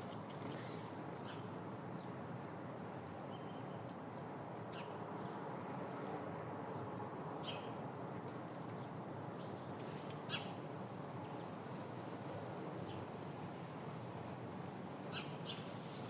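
Small birds giving short, high chirps now and then over a steady background hiss.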